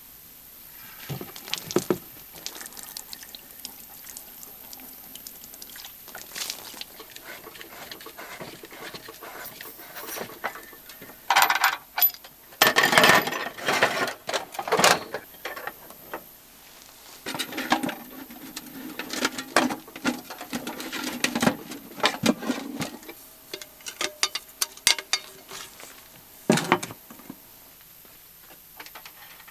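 Irregular clattering, knocking and rustling of camp cookware, plates and utensils being handled, with a few louder bursts of handling noise about halfway through.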